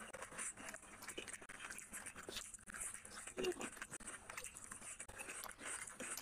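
A person chewing a mouthful of rice and fish curry eaten by hand, with many small, irregular wet mouth clicks and smacks, and fingers working the rice on the plate.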